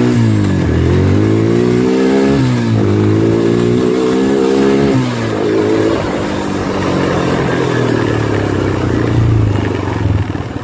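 ATV (four-wheeler) engine accelerating through the gears: the pitch climbs, drops at a shift about two seconds in, climbs again until about five seconds in, then settles to a lower, steadier run and eases off near the end.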